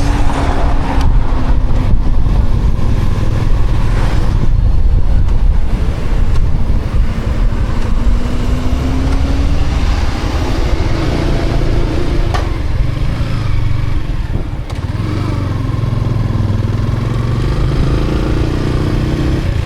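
Yamaha Sniper 155R's single-cylinder engine running as the motorcycle is ridden, under a heavy low rumble of road and wind noise; the engine pitch shifts early on and settles into a steadier, lower note in the second half as the bike slows.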